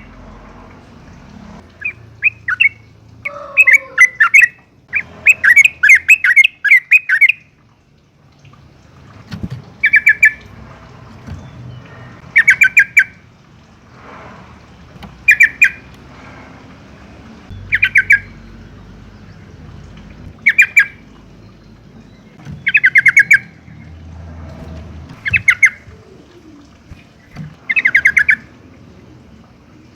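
Yellow-vented bulbul calling in bursts of fast chattering notes. The bursts come close together in the first few seconds, then settle into one short burst every two to three seconds.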